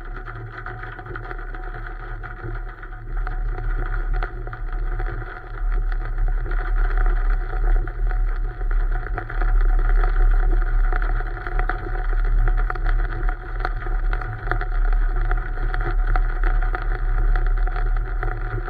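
A steady engine drone over a low rumble, growing louder about four seconds in.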